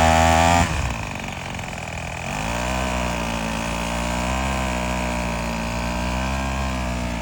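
A weed eater engine driving a kayak runs at high throttle, then drops back under a second in. About two seconds in it picks up again to a steady, lower-pitched running speed that wavers slightly.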